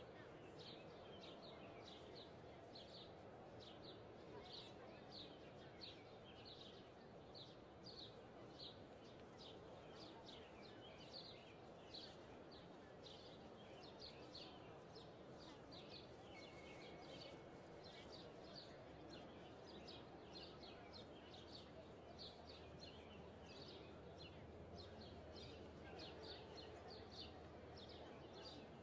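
Faint birdsong: short, high chirps repeating one or two a second over a soft, steady background hum.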